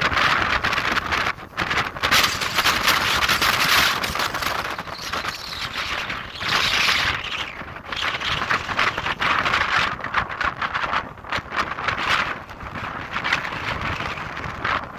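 Strong wind howling in gusts, rushing and buffeting the microphone, swelling and dropping every second or two.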